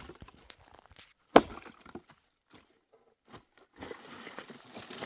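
A few sharp wooden knocks, the loudest about a second and a half in, with quiet between them, then a soft rustling near the end.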